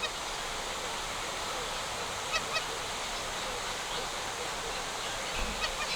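Fulvous whistling ducks calling: two short calls about two and a half seconds in and a couple more near the end, over a steady background hiss.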